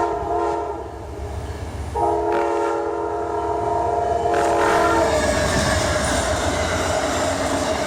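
Amtrak passenger train's multi-note chime horn sounding for a grade crossing: a blast that ends just after the start, then a long blast from about two seconds in, over the locomotive's low rumble. About halfway through, the loud rush and clatter of wheels on rail take over as the train passes at speed.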